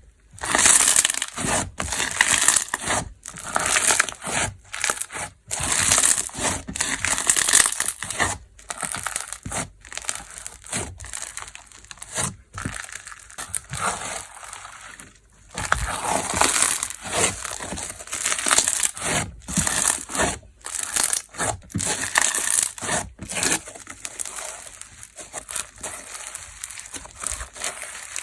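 Hands squeezing and pressing a crunchy, fizzy-textured 'juwajuwa' slime, fugashi-themed, making crackling, crinkly squishes in irregular bursts with short pauses between them.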